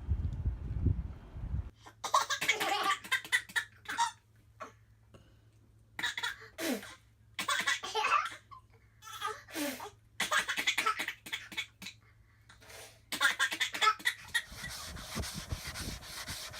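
Laughter in several bouts of short giggles and chuckles with pauses between, over a faint steady low hum.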